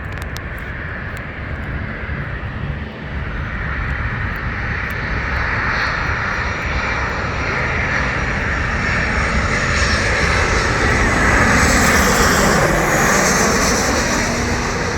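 Jet engines of a Southwest Airlines Boeing 737 near the runway, growing steadily louder as the airliner approaches. The noise peaks about twelve seconds in, with a high-pitched engine whine coming up in the last few seconds.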